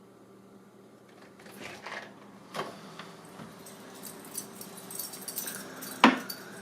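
Keys jangling and clicking at a door lock, with scattered rattles building up and one sharp knock about six seconds in, as the front door is unlocked and opened.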